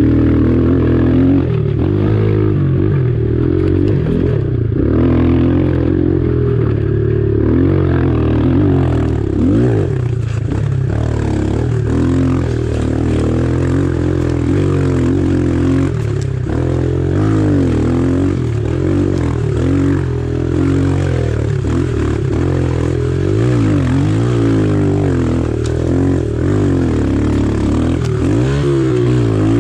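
Pit bike engine being ridden hard, revving up and down over and over with the throttle changes.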